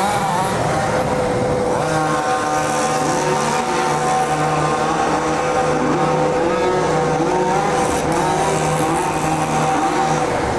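Two-stroke petrol engines of 1:5-scale RC cars running hard. One engine holds a steady high pitch while another repeatedly revs up and falls back.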